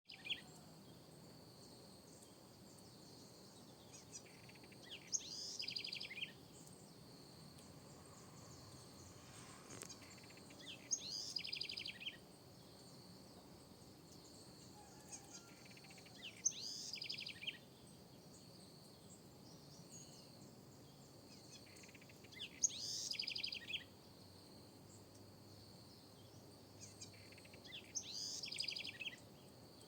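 House wren (corruíra) singing five times, a song about every six seconds, each a quick jumble of notes ending in a fast trill. A steady high insect drone runs underneath.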